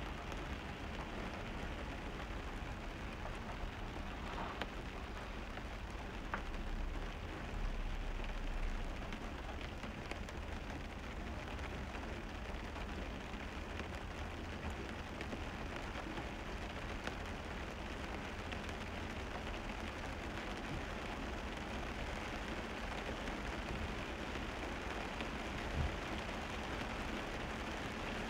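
Steady rain falling on the garden's trees and foliage, with one short thump near the end.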